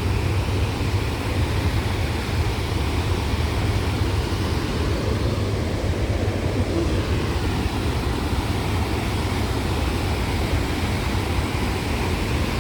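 Steady rush of a large waterfall and river rapids, heard close to the water.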